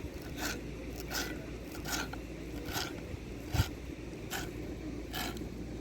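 Seven evenly spaced scraping strokes, about one every three-quarters of a second, with a single dull thump about halfway through.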